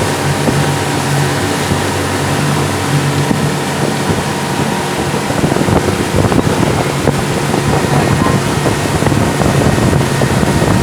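Towing motorboat's engine running steadily, with wind buffeting the microphone and the rush of water.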